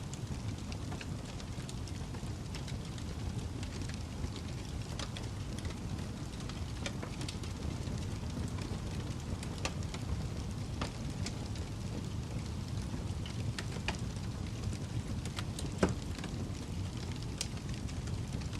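Fireplace fire burning with a steady low rumble and scattered crackles and pops, one louder pop near the end.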